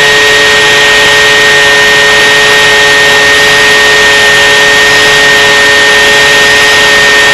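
Motor and propellers of a flying craft running steadily at high power: a loud, even whine of several tones over a rushing noise.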